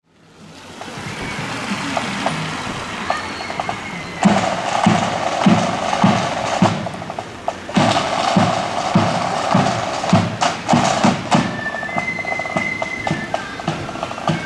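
Marching band drums playing a steady beat, about one and a half low strikes a second, with a dense rattle over them. The sound fades in at the start and grows louder about four seconds in; a few high held notes come in near the end.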